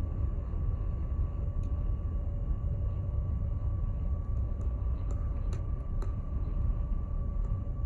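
WPL C34 Toyota FJ40 RC crawler truck running, with a low rumble and a steady high whine throughout. A few sharp irregular ticks come in the middle: ticking that the owner puts down to a broken servo.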